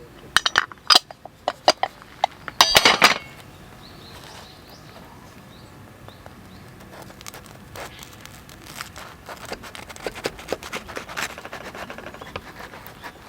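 Metal camp cookware and utensils clinking and clattering, with a loud cluster of clanks just under three seconds in, then a run of lighter taps and ticks.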